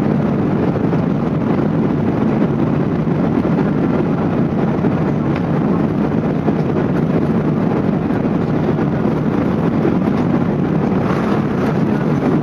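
Steady cabin noise of an Airbus A380 in flight, heard from inside the passenger cabin: an even, low rushing din of the engines and the airflow over the fuselage.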